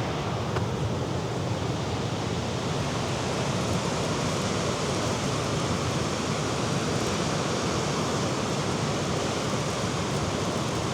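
Steady wash of sea surf and wind, an even rushing noise with no distinct breaks or events.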